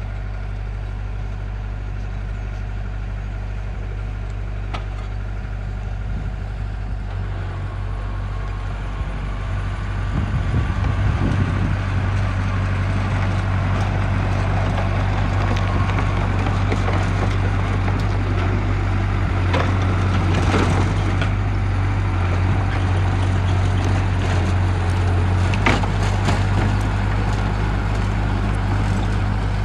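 Heavy construction machinery's diesel engine running steadily, pulling harder and louder about a third of the way in. Sharp cracking and snapping comes over it several times, loudest about two-thirds through and again near the end.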